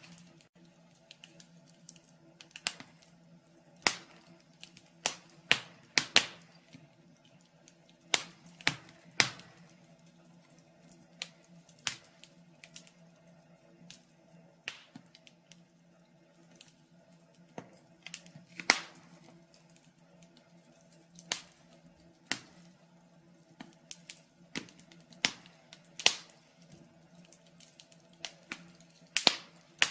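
Wood fire in a fireplace crackling: irregular sharp pops and snaps, a few every couple of seconds, over a faint steady hum.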